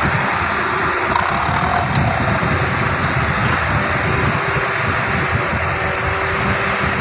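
Dump truck's diesel engine running hard and steady, a dense continuous noise with a faint held tone through it.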